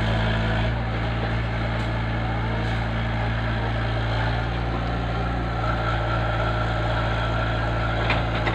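An engine running steadily at a constant speed, a low even drone, with a couple of faint clicks near the end.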